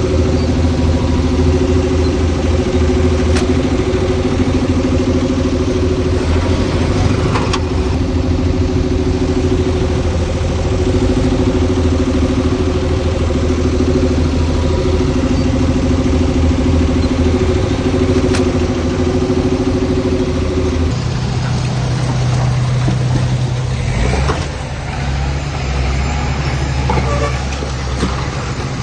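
Heavy earthmoving-machine diesel engine running steadily, with a few sharp clicks. Well past halfway its steady tone changes to a lower, different hum.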